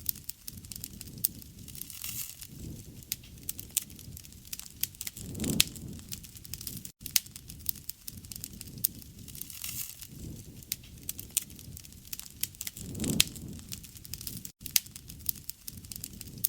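Wood fire burning, with frequent sharp pops and crackles over a low rumble of flame. Twice the flames swell louder for a moment.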